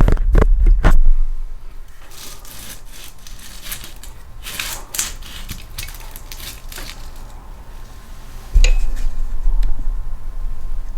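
Knocks, rubbing and scraping as a small engine is handled and worked on at a workbench. There is a cluster of heavy knocks at the start, scratchy rubbing in the middle, and a loud low rumble of handling from about two thirds of the way through.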